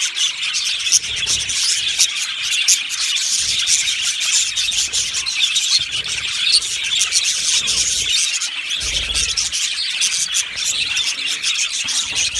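A flock of budgerigars chattering and chirping together in a continuous, dense stream of quick warbles and clicks, with a brief low rumble about three-quarters of the way through.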